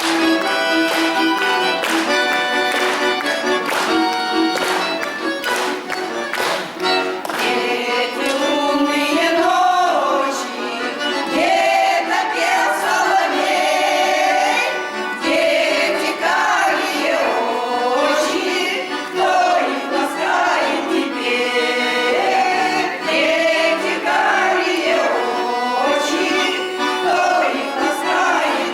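Accordion playing an instrumental introduction, then a group of voices singing a song to the accordion accompaniment, starting about eight seconds in.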